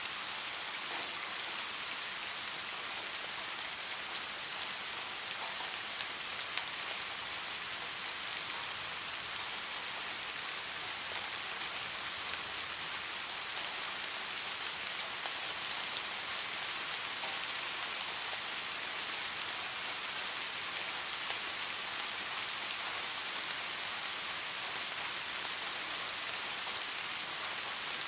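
Steady rain falling on a surface, with a few separate drops ticking out of the hiss.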